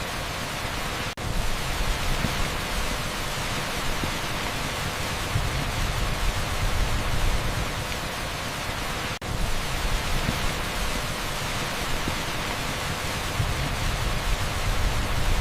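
Torrential rain pouring onto an asphalt street: a dense, steady hiss with a low rumble under it. It cuts out for an instant twice, about a second in and again about nine seconds in.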